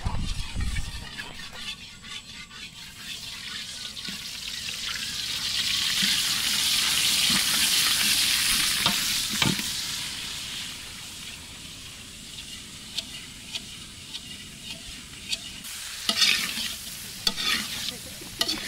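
Orange segments frying in hot oil in a metal wok, sizzling; the sizzle swells for several seconds and then dies down. A steel ladle stirs them, scraping and clicking against the pan, with a few low knocks in the first second.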